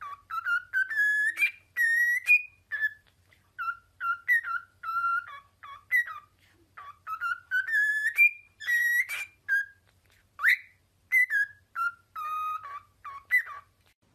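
A pet parrot whistling a tune: a string of short, clear notes that step up and down in pitch, with brief pauses between phrases.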